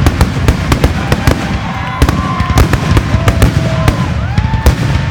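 Fireworks finale: a rapid, continuous barrage of overlapping bangs over a constant low rumble. From a second or so in, several whistling tones rise and then hold in pitch.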